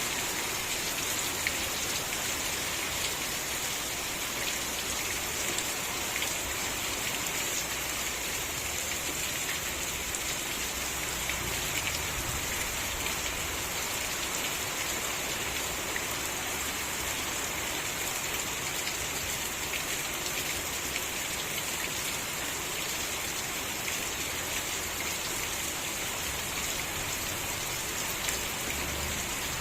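Steady rain falling, a dense even hiss of drops with fine pattering throughout.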